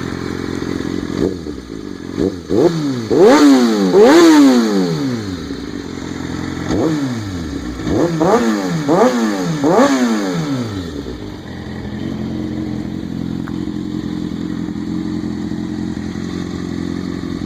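2004 Kawasaki 636's inline-four engine through a Two Brothers shorty exhaust, idling, then revved in two bursts of quick throttle blips, each a sharp rise and fall in pitch. It settles back to a steady idle about two-thirds of the way through.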